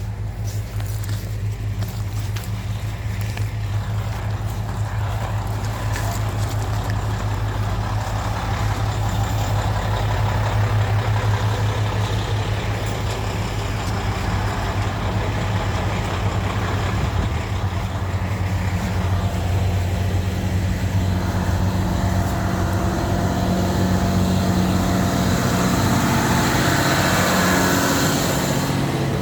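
Diesel railcar engines running at a standstill with a steady low hum. In the last several seconds the engine note grows louder and fuller, with higher tones coming in.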